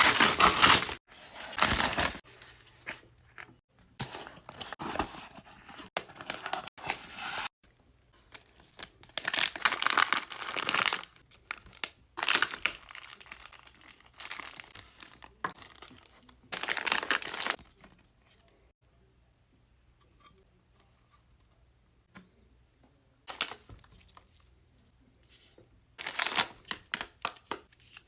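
Packaging being crinkled and torn open in irregular bursts with short pauses, and a quieter lull in the second half.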